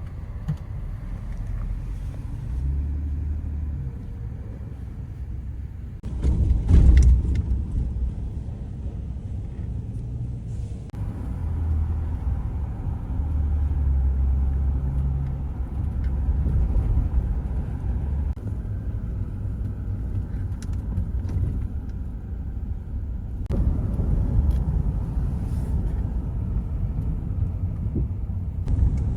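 Steady low rumble of background noise that shifts abruptly a few times, with a louder burst of noise about six seconds in.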